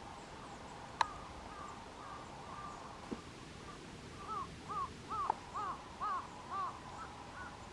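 A bird calling outdoors in a quick series of short, arched calls, two to three a second, after fainter calls in the first seconds; a single sharp click sounds about a second in.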